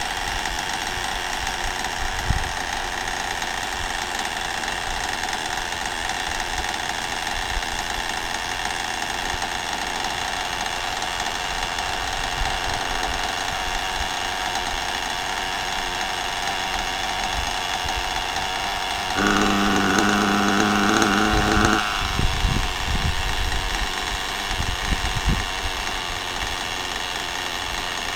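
Electric motor of an HPI Lightning Stadium Pro radio-controlled stadium truck whining steadily as it runs. About two-thirds of the way in, a louder pitched tone cuts in for about three seconds, then a few low thumps follow.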